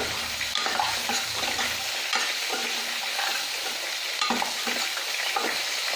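Onion-tomato masala sizzling as it fries in a kadai, with a steady hiss. A spoon stirring it now and then clicks against the pan.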